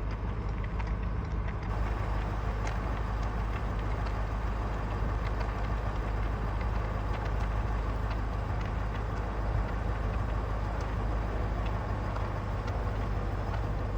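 Pickup truck running on the road: a steady low engine and road rumble, with a few faint ticks.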